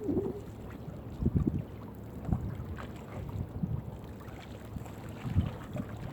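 Irregular dull thumps and knocks from work aboard a small fishing boat while crab gillnet is hauled in, over a steady low rumble of wind on the microphone and water around the hull. The loudest thump comes a little over five seconds in.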